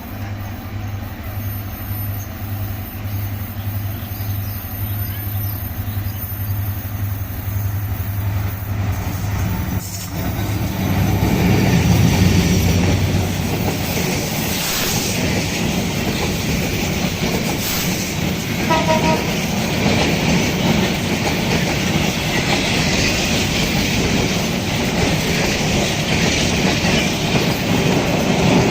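Meter-gauge diesel train passing. A locomotive engine throbs steadily at first; from about ten seconds in, the louder rumble and clatter of the train's wheels and carriages takes over, with a short toot near the middle.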